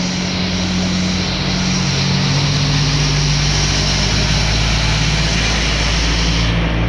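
Diesel train engine running loud and steady at the station, its low hum stepping down slightly in pitch about two seconds in, with the higher hiss easing near the end.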